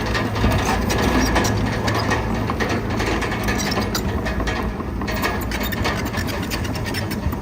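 Crawler bulldozer at work: its steel tracks clank and squeak in a dense run of rapid clicks over the steady hum of its running engine.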